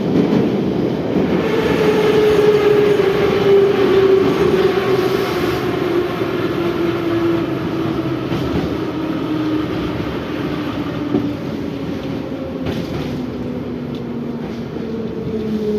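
81-717/714 metro train running in the tunnel, its traction-motor and gear whine falling steadily in pitch over a loud rumble of wheels on rail as the train slows for the station.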